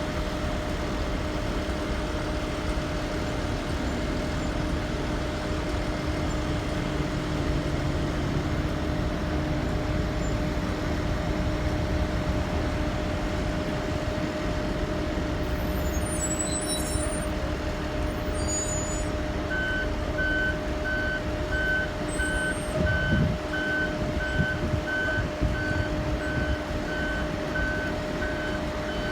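2019 Blue Bird All American school bus engine running steadily; about two-thirds of the way in its reverse alarm starts beeping steadily as the bus backs up.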